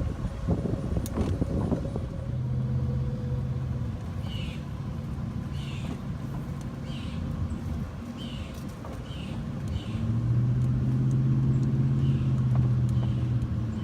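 A vehicle's motor running with a steady low hum that swells louder about ten seconds in. Short high chirps repeat irregularly over it.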